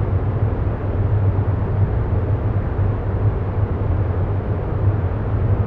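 A steady, deep rumbling noise bed with no pitch or rhythm, running evenly under the pauses in the affirmations.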